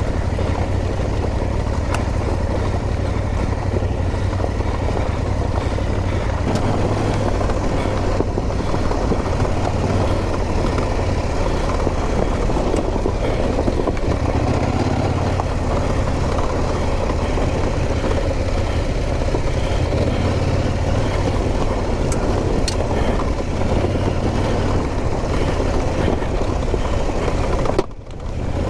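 Adventure motorcycle engine running steadily at low revs off-road, with wind and rolling noise on the microphone. The sound cuts out briefly near the end.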